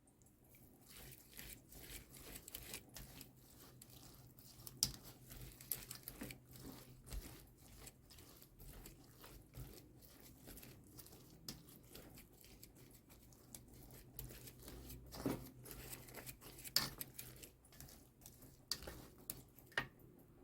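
Kitchen food-preparation sounds: irregular crinkling, crackling and small clicks, with a few sharper ticks.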